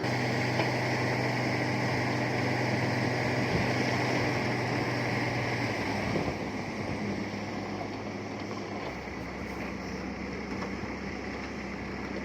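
Heavy diesel earthmoving machinery running steadily at work. About six seconds in the engine note changes, and it settles lower and slightly quieter near the end.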